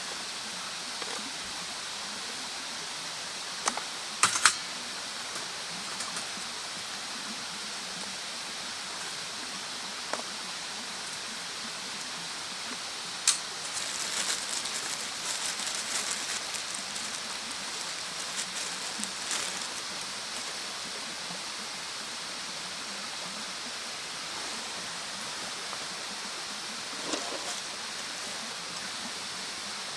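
Wood bonfire burning: a steady hiss with scattered sharp pops and crackles, the busiest run of crackling about fourteen to sixteen seconds in.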